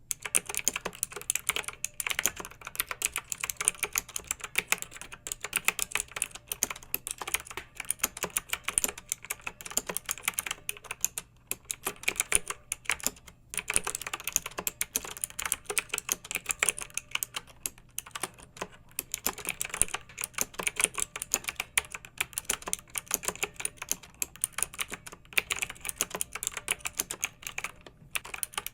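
Clicky mechanical keyboard being typed on steadily, a dense run of keystroke clicks broken by a couple of brief pauses near the middle.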